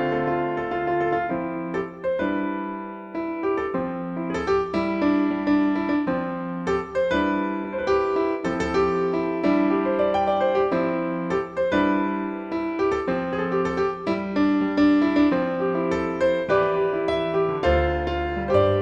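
Piano music: a melody played over bass notes and chords, with one note after another struck and left to ring.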